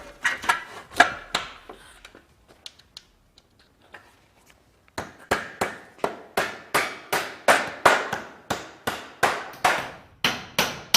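Hammer nailing a metal corner mould onto the timber wall frame. A few knocks come in the first second and a half, then after a pause a steady run of blows at about three a second from about five seconds in.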